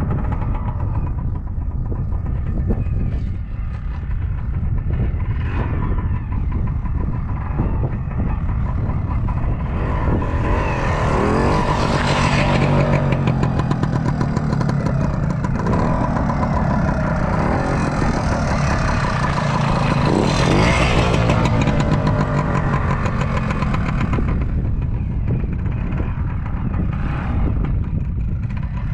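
1976 Kawasaki KT250 trials motorcycle's two-stroke single-cylinder engine running while the bike is ridden. It revs up and back down twice, about ten seconds in and again about twenty seconds in.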